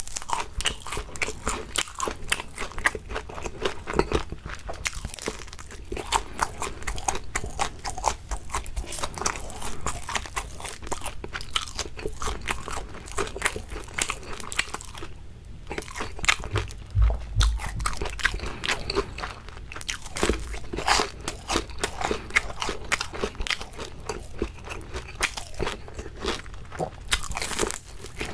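Close-miked biting and chewing of crispy fried shrimp: dense, continuous crunching with a brief pause about halfway through.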